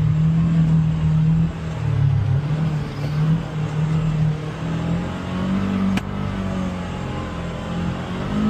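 Polaris Xpedition UTV engine running on the trail, its pitch falling and rising as the throttle is eased and opened. There is one sharp click about six seconds in.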